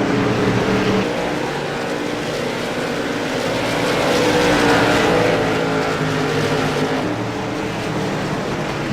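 Race car engines running at speed on track, one car passing and loudest about four to five seconds in.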